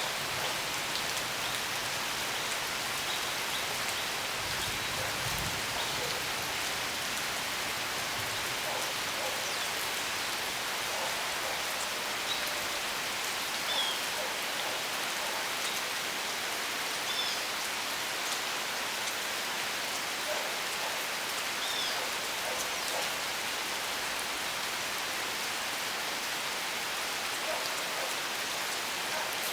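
Steady rainfall, with occasional louder drops standing out.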